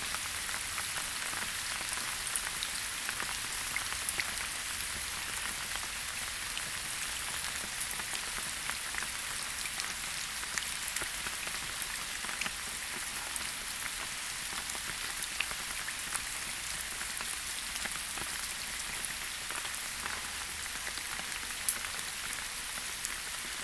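Steady rain falling in a forest, an even hiss with many separate drops pattering close by.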